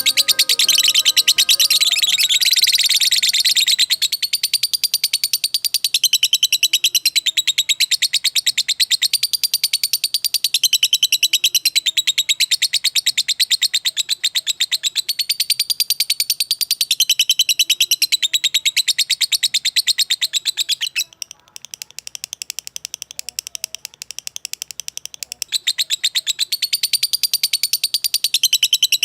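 A songbird singing a long, fast run of high chirps, many to the second, that grows softer for a few seconds about three-quarters of the way through. Music fades out under the song in the first few seconds.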